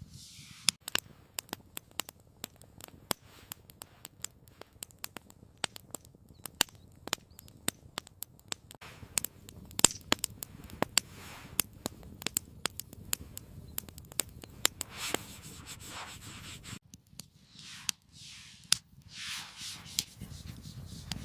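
Wood campfire crackling, with irregular sharp snaps and pops and a few louder cracks. In the last few seconds the low background drops away and soft hissing swells rise and fall.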